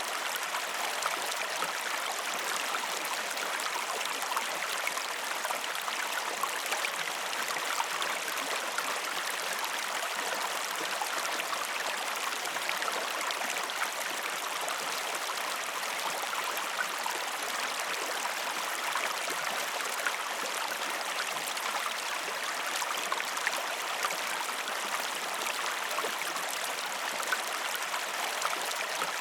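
Steady flowing water, like a stream running over stones: an even rushing and trickling, flecked with tiny splashing ticks, with no deep rumble.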